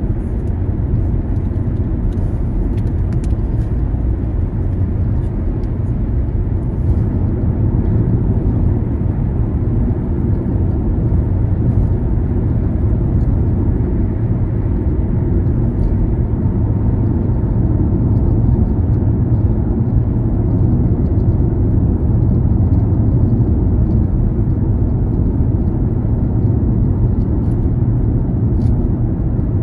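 A car driving: a steady low rumble of engine and tyres on the road.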